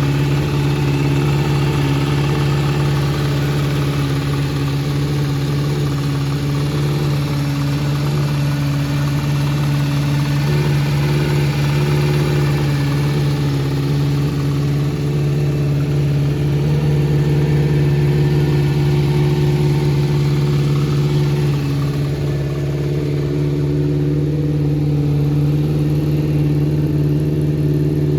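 Kawasaki Z400J's air-cooled inline-four engine, fitted with an aftermarket four-into-one collector exhaust, idling steadily. The seller notes a slight cam chain noise from this engine.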